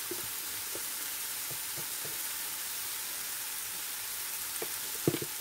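Tomato and onion masala with curry powder frying in a nonstick pan, a steady sizzle with faint pops. A couple of sharp knocks near the end, a utensil against the pan.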